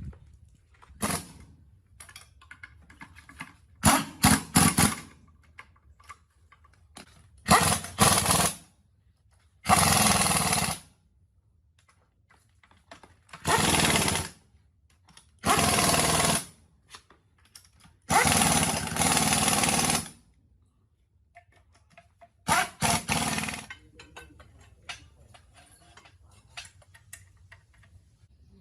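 A power tool run in short bursts of about a second, eight or so times, with quiet gaps and small clinks between.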